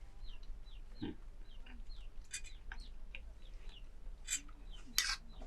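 Birds calling in short, repeated notes that fall in pitch, a few each second, with a brief louder rustle about five seconds in.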